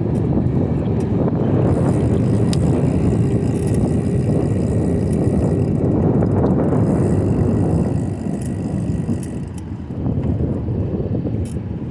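Wind rushing over the microphone and tyres rolling on pavement as a bicycle is ridden fast. The rush eases somewhat about eight seconds in, as the bike slows.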